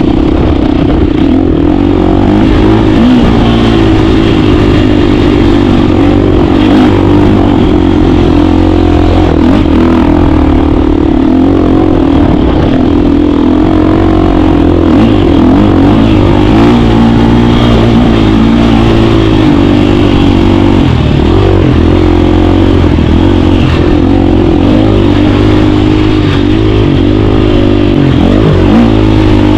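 KTM 350 dirt bike's single-cylinder four-stroke engine running steadily and loud, its pitch rising and falling slightly with the throttle.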